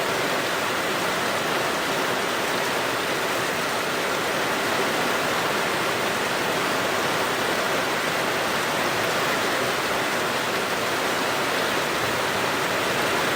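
Heavy rain pouring down, a steady dense hiss with no separate drops standing out.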